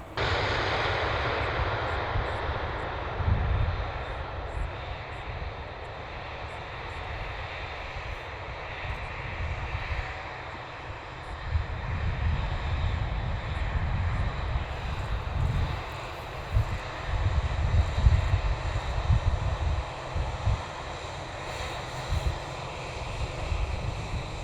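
Jet airliner engines running, loudest at the very start and then easing to a steady hiss, with irregular gusts of wind buffeting the microphone.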